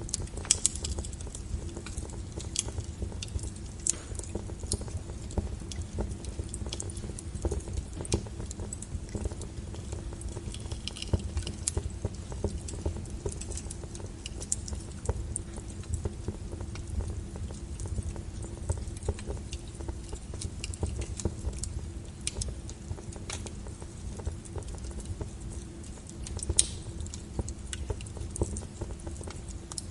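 Logs burning in a fireplace, crackling with irregular sharp pops, a few louder than the rest, over a low steady rumble.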